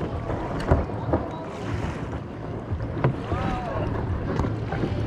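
Kayak paddling on a river: water splashing and rushing around the paddle and hull, with a few sharp knocks and wind buffeting the microphone.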